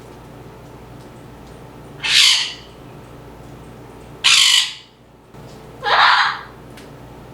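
Pet parrot squawking three times, loud harsh calls about half a second long, roughly two seconds apart.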